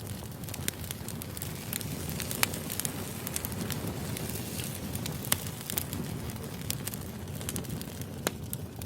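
Firewood burning in a fire: a steady low rumble with irregular sharp crackles and pops, the loudest about two and a half seconds in and again about five seconds in.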